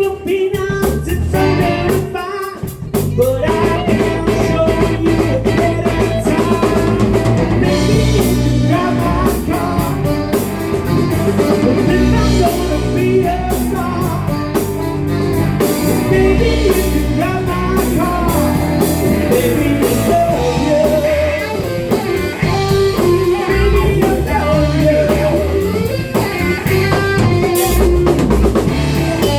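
Rock band playing a blues-rock song with drum kit, guitar and singing, over a steady beat.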